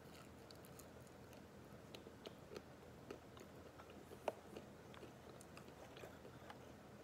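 Faint chewing of a mouthful of raw, dry instant ramen noodles: scattered soft crunches and mouth clicks, with one sharper crunch about four seconds in.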